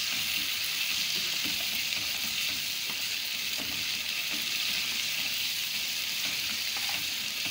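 Onion-tomato masala and mutton pieces sizzling in oil in a non-stick wok, stirred with a spoon during the bhuna stage of frying the masala down. A steady, even sizzle with faint scraping now and then.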